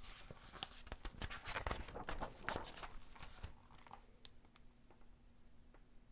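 Handling noise: rustling with a quick run of clicks, densest over the first three seconds, then thinning to a few scattered ticks.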